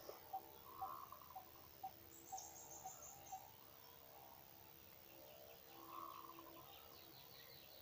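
Faint birdsong in a quiet rural garden: a bird repeats a short note about twice a second for the first few seconds, with a high trill about two seconds in and a run of quick chirps near the end.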